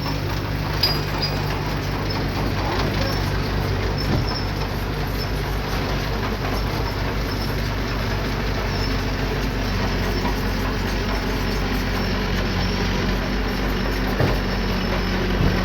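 Diesel engine of earthmoving machinery running steadily under light load, with a few sharp metallic knocks about a second in, around four seconds in, and near the end.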